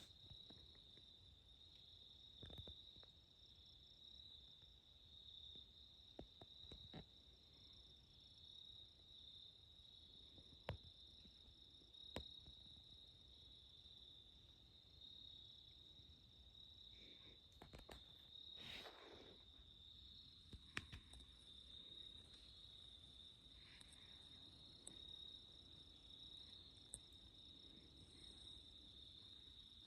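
Faint, steady, high-pitched insect chorus trilling in the woods, with a few scattered small clicks and snaps.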